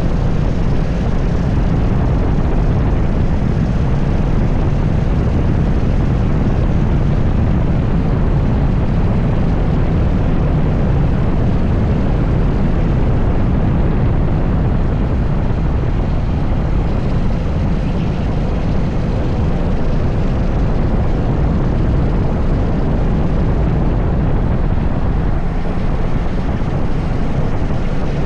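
80cc go-kart engine running on track, a loud steady drone with no breaks or pauses.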